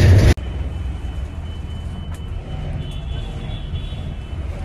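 Hino 1J bus engine running with a steady low rumble and a faint thin high tone above it. A louder, fuller wash of noise cuts off abruptly about a third of a second in.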